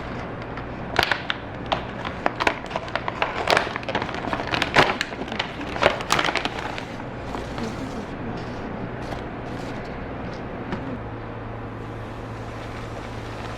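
Kitchen clatter: cookware and utensils knocking in a quick run of sharp clicks for the first several seconds, then a steady sizzle of food frying in a pan.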